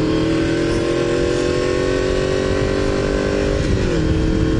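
Honda VFR750's V4 engine pulling steadily under a rider at road speed, its pitch climbing slowly, with low wind rumble on the helmet microphone. About three and a half seconds in the engine note dips briefly as the throttle eases, then holds steady.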